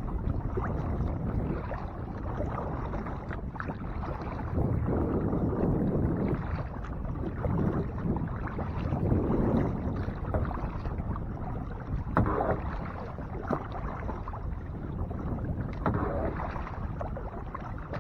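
Kayak paddle strokes dipping and splashing in lake water, coming in swells a few seconds apart over a steady low rush of noise.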